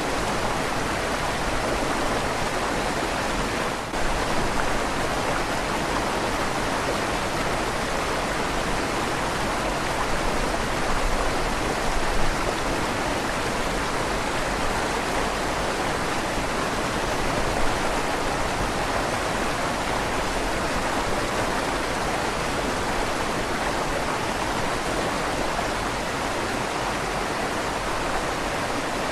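River water flowing steadily through the tunnel under a stone bridge, with a slight echo off the inside of the tunnel.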